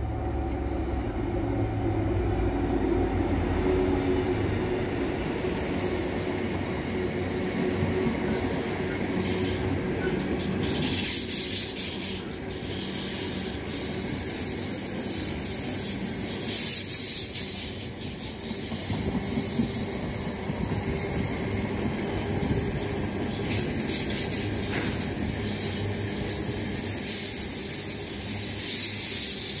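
Train running on the rails through the station: a low rumble at first, giving way to a steady hiss with scattered clicks from about ten seconds in.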